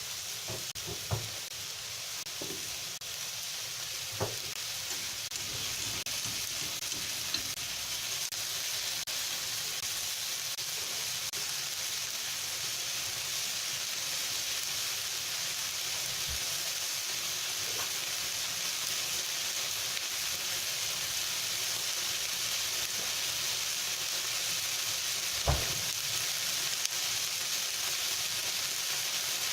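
Pork belly and kimchi sizzling in a frying pan as they are stir-fried, a steady hiss that grows slightly louder. A few short knocks of the stirring utensil against the pan, the loudest near the end.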